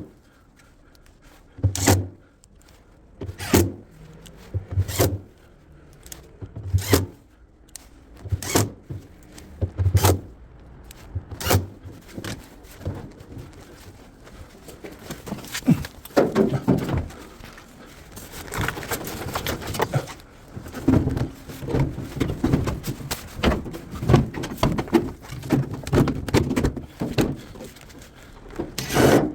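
Sped-up work sounds: a series of sharp knocks about every second and a half, then denser clattering and knocking through the second half.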